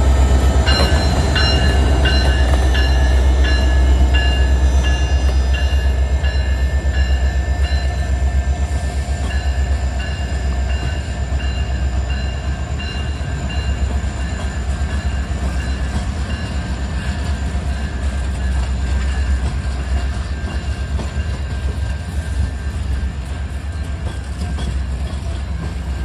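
Alaska Railroad train with its EMD diesel locomotive running past: a deep, steady engine rumble. For the first ten seconds or so a high ringing tone repeats at a quick, even pace, then fades out.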